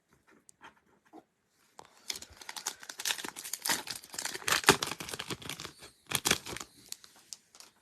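Plastic wrapper of a football trading-card pack torn open and crinkled by hand, a dense crackling starting about a second and a half in, loudest near the middle and again near the end.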